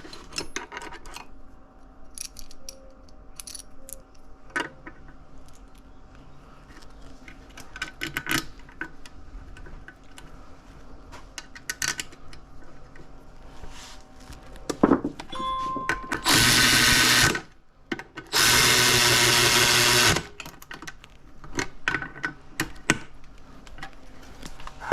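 Two steady bursts from a power tool, the first about one second long and the second about two seconds long after a short gap, amid light clinks of metal tools and transmission parts being handled.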